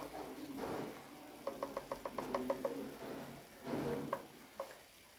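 A quick run of about eight light, ratchet-like clicks, roughly seven a second, from a small kitchen utensil or container. Soft scraping or rustling comes before and after the clicks.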